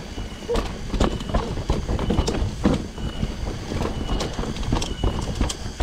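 Mountain bike clattering over a rough dirt trail: irregular sharp knocks and rattles over a steady low rumble.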